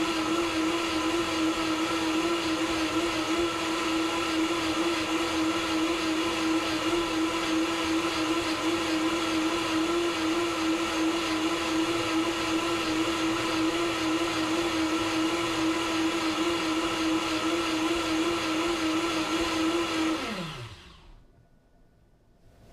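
Vitamix S55 personal blender running steadily at high speed on its power blend setting, blending a green smoothie. About two seconds before the end the motor stops and spins down with a falling pitch.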